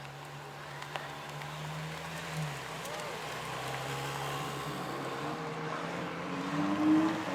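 A car engine running steadily at a low hum, with a short rise in pitch and loudness near the end.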